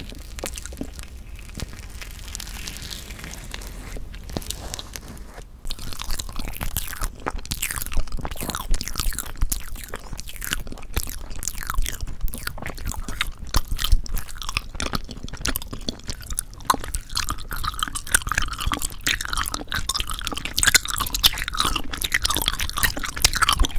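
Close-miked ASMR eating sounds: crunchy bites and chewing in a dense run of crackles. They are soft for the first five seconds or so and turn loud and busy from then on.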